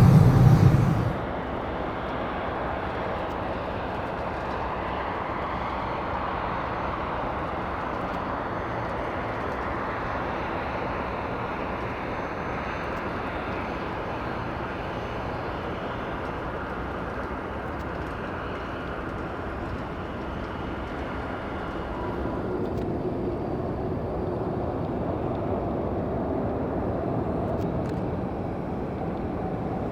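A loud jet roar cuts off about a second in. After it comes the steady whine of a Boeing 747-8F freighter on push-back. The whine grows slightly louder, and a lower hum joins it, about 22 seconds in.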